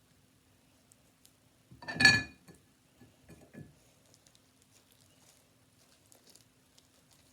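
A utensil clinking once against a dish, with a brief ring, about two seconds in; a few softer knocks and faint handling ticks follow.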